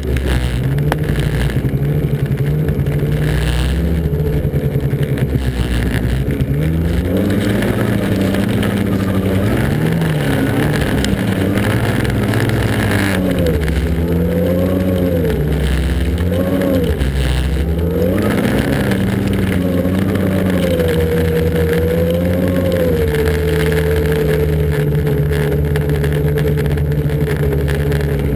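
Snowmobile engine running under way, its pitch rising and falling again and again as the throttle is worked, then holding a steady pitch for the last few seconds.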